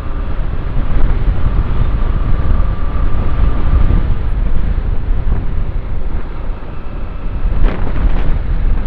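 Wind rushing and buffeting over the microphone of a moving motorcycle, mixed with the bike's engine and road noise. Two brief sharp sounds come near the end.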